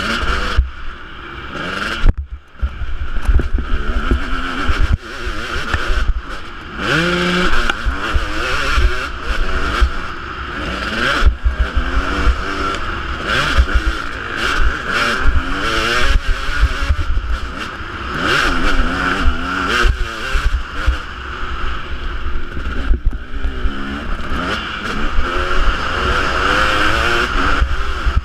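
Husqvarna 250 two-stroke motocross bike engine being ridden hard, its note rising and falling again and again as the throttle is opened and shut, with a brief drop about two seconds in.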